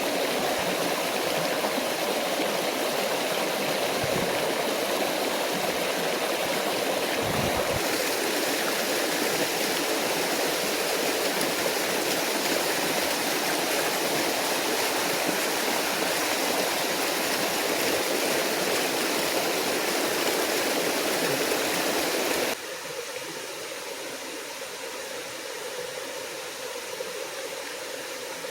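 Steady rushing of a small forest stream and waterfall. About three-quarters of the way through it cuts suddenly to a quieter, softer water sound.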